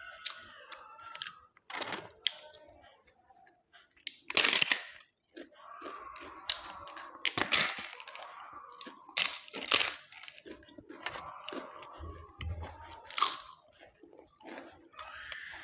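Close-up eating sounds: papad crunching as it is bitten, several sharp crunches, with wet chewing in between.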